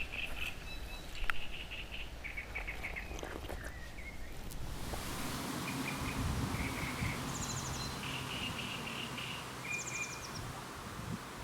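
Outdoor ambience of small birds chirping in short repeated trills, over a steady background hiss that rises suddenly about five seconds in.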